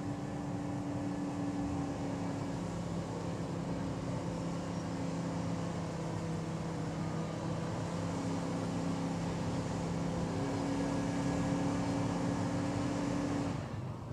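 Truck engine running hard under load, pulling a weighted sled down the track, its pitch held fairly steady with a few shifts; it cuts off shortly before the end.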